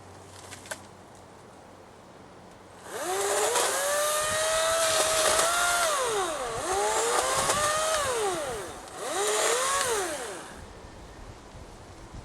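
Ego 56-volt 14-inch battery chainsaw cutting a branch, run in three bursts. Each time the motor whine rises as it spins up, holds, and falls away when the trigger is let go.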